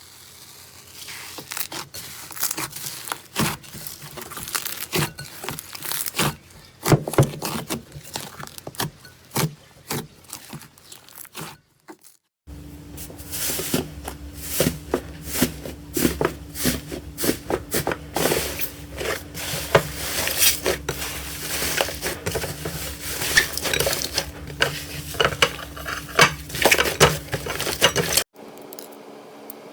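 Slime being squished and worked by hand, with many sharp clicks, pops and crackles. It comes in two stretches with a short silent gap about twelve seconds in.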